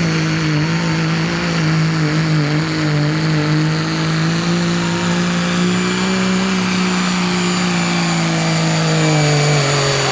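Diesel pickup truck engine running at full throttle under load while pulling a sled, a steady engine note with a thin high whistle over it. The engine pitch sags slightly near the end.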